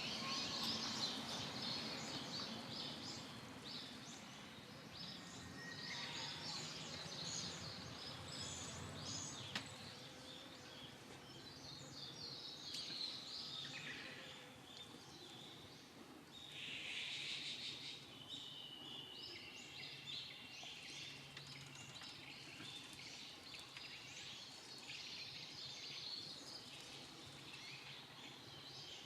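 Brown-eared bulbuls calling on and off, short high chirps and calls over a low, steady background hum.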